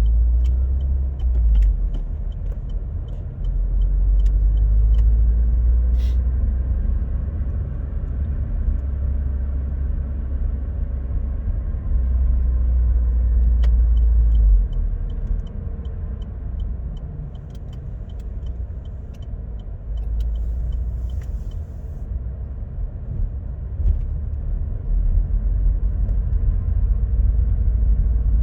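Car driving at speed, heard from inside: heavy low road rumble with a faint, slowly drifting whine, the noise blamed on the Opel/Vauxhall M32 six-speed manual gearbox, whose bearings are known to fail. A light regular ticking comes and goes twice.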